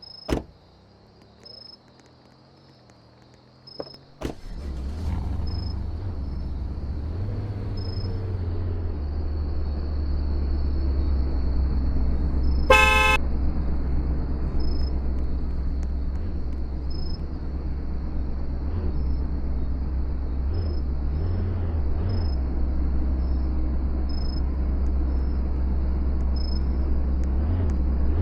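A couple of sharp clicks, then a car engine starts about four seconds in and runs with a steady low rumble. A single short car horn toot sounds about halfway through.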